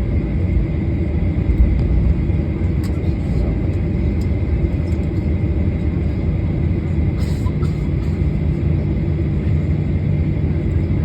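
Steady low cabin rumble inside a jet airliner on the ground after landing, with a faint steady whine above it.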